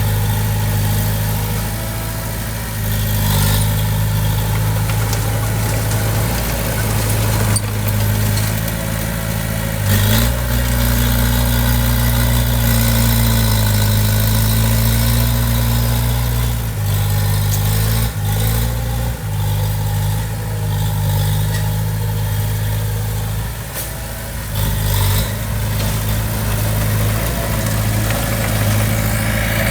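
Diesel engine of heavy earthmoving equipment running. Its pitch rises about ten seconds in, holds for several seconds under load, then settles back, with a few brief knocks along the way.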